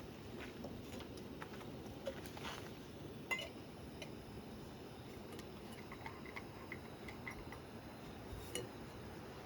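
Light clinks and ticks of cooking gear being handled, over a steady low hiss: one sharper clink about three seconds in, and a quick run of small high ticks a few seconds later.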